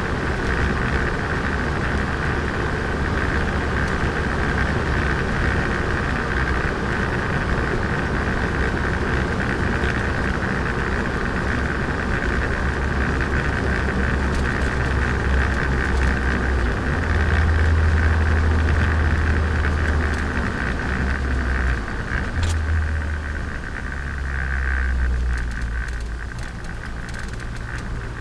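Turbocharged Nissan Micra driving, its engine and road noise running steadily with a low rumble. It grows louder about two-thirds of the way through, then eases off near the end.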